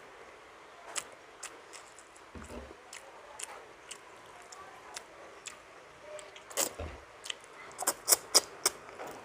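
Close-up mouth sounds of someone eating milkfish stewed in vinegar: scattered wet clicks and smacks of chewing, with a quick run of louder smacks near the end.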